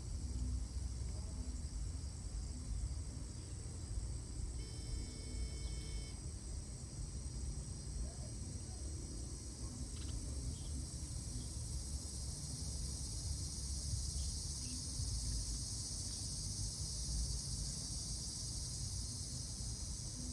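Insects chirring in a steady high-pitched chorus that swells in the second half, over a low rumble. A held, several-toned sound lasts about a second and a half near the start.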